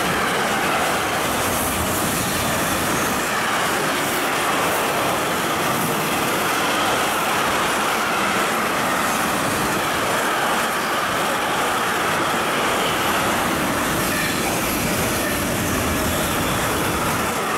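Container freight train passing close at speed: a steady loud rush of wagon wheels rolling on the rails, with a steady high whine running through it.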